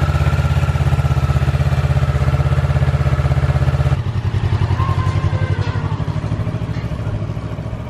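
Motorcycle engine idling with a fast, even pulse, dropping in level about four seconds in.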